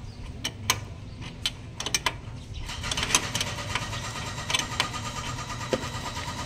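Scattered sharp clicks and knocks, like hand-tool and metal-part handling, over a steady low engine hum.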